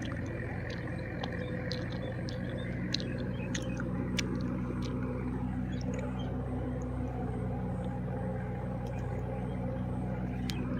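Tractor engine running at a steady speed, a low constant drone with a few faint ticks over it.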